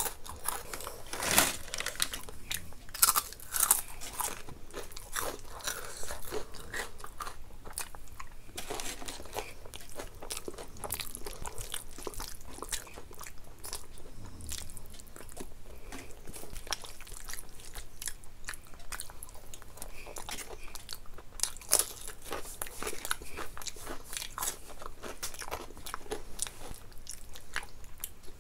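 Close-miked eating: steady chewing with many irregular crisp crunches and bites of fried food. The loudest crunches come in the first few seconds and again about three quarters of the way through.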